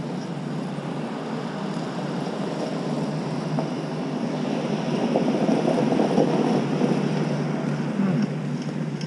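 A road vehicle going by: a rushing rumble that builds to a peak about halfway through and stays fairly loud.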